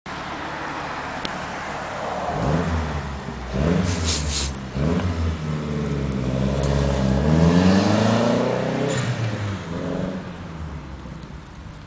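Mazdaspeed 3's turbocharged 2.3-litre four-cylinder running through a Vibrant downpipe-back exhaust. It runs steadily at first, is revved up and back down a couple of times, then makes a long climb in pitch that falls away, and fades near the end.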